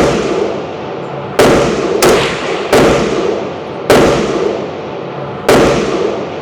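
Gunshots at a rifle range: five loud shots in irregular succession, each with a long echoing tail.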